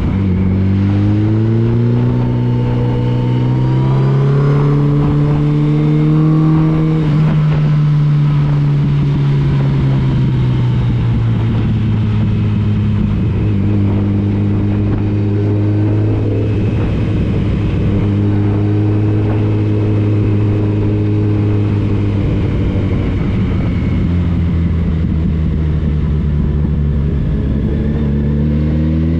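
Motorcycle engine under way at road speed, its pitch rising as it accelerates over the first several seconds, easing off, then running steady before climbing again near the end, with wind rush underneath.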